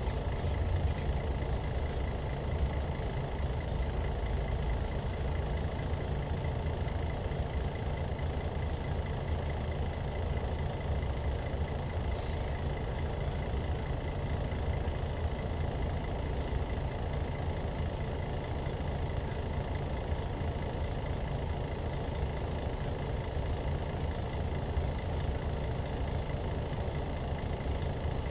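Hyundai D6CC Powertec 380 six-cylinder diesel engine of a 2014 Hyundai Universe Comfort coach, running steadily with a low drone.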